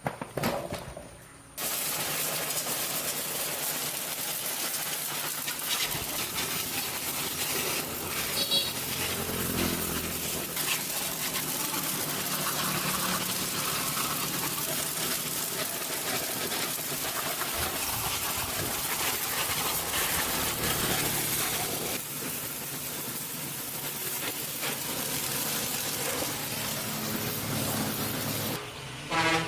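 A steady hiss of water spraying under pressure, with a low hum beneath. It starts suddenly about two seconds in and cuts off suddenly near the end.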